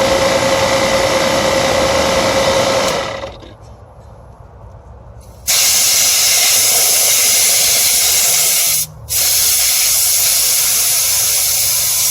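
Refrigerant recovery machine running with a steady tone, shut down about three seconds in. After a short lull a loud, steady hiss of gas venting from a hose or valve starts, breaks off for an instant, then carries on.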